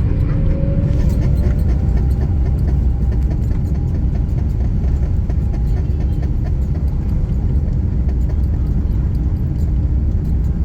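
Cabin noise of an Airbus A350-900 on its takeoff roll: its Rolls-Royce Trent XWB engines and the rolling gear make a loud, steady low rumble. A tone rises in pitch in the first second or so as the engines spool up, and many small knocks come through from the runway.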